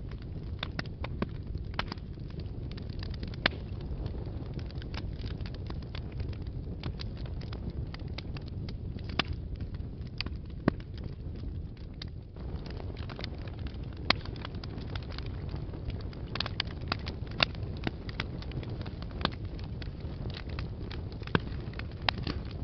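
Wood fire burning in a fireplace: a steady low rush of flames with frequent, irregular sharp crackles and pops, a few louder than the rest.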